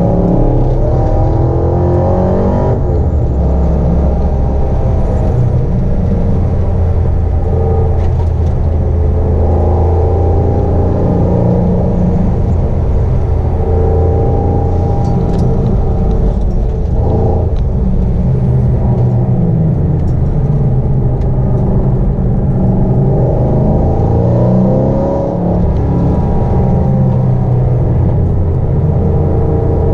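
Supercharged 6.0-litre L77 V8 of a Holden VE SS-V ute being driven hard on track, its note climbing under acceleration and dropping back at shifts and when lifting for corners.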